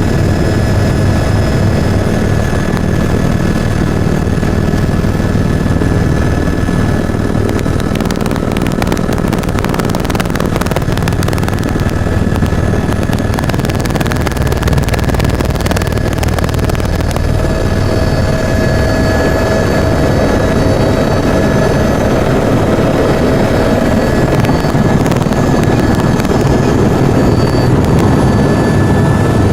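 Helicopter turbine and rotor running loud and steady, with a continuous high whine over a deep rotor throb; a second, lower whine joins about halfway through.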